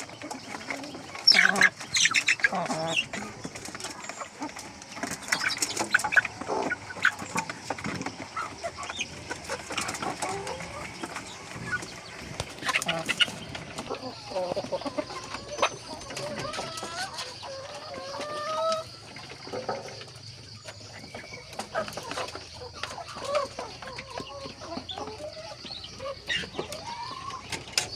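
Local-breed chickens clucking: many short, irregular calls with some sharp clicks, and a steady high-pitched hiss that comes in about halfway through.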